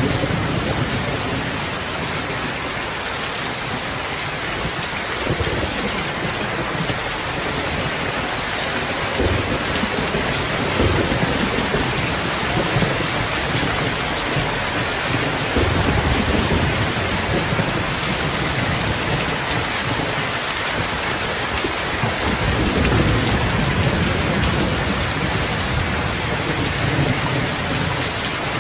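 Heavy rain falling steadily, with low rolls of thunder rumbling up and fading several times.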